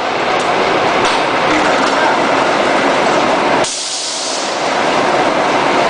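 Longitudinal veneer slicer running with a loud, dense mechanical rattle. About three and a half seconds in it changes to a thinner, hissier sound.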